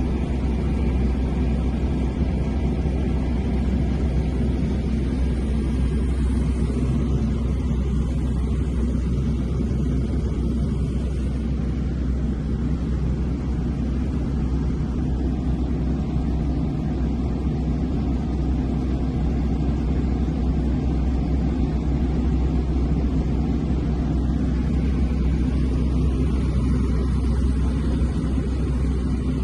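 Small airplane's engine and propeller droning steadily, with no change in pitch or power.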